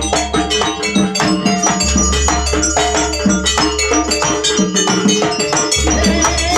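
Live jaranan accompaniment from a gamelan-style ensemble: drums and struck metal mallet instruments playing a quick, steady rhythm over sustained pitched tones.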